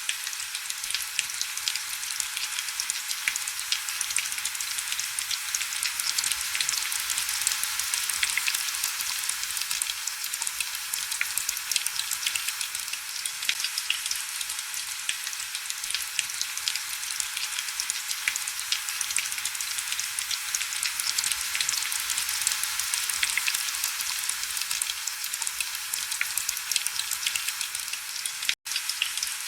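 Heavy rain falling steadily, a dense crackling patter of many close drops, high and hissy with little low rumble. The sound cuts out for an instant about a second before the end.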